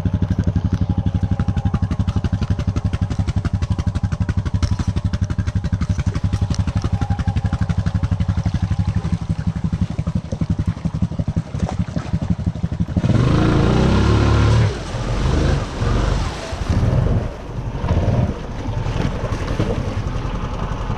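Honda Rancher 420 ATV's single-cylinder four-stroke engine idling with an even putter, then revved hard in several separate bursts from about two-thirds of the way in.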